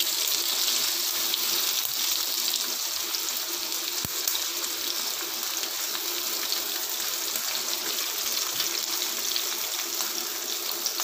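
Slices of yellow pumpkin sizzling steadily in hot oil in a pan, with a single light tap about four seconds in.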